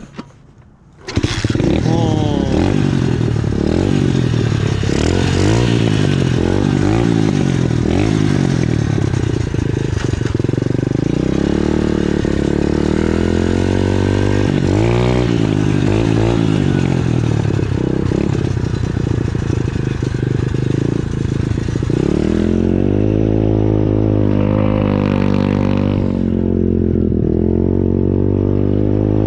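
Pit bike engine kick-started, catching about a second in, then running hard and revving up and down again and again as the bike is ridden.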